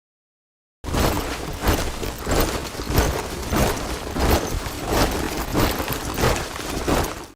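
A squad of soldiers marching in step, boots striking the ground together in a regular beat. It starts abruptly about a second in and cuts off abruptly just before the end.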